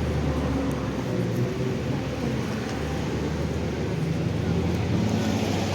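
An engine running steadily with a low drone, with faint voices in the background.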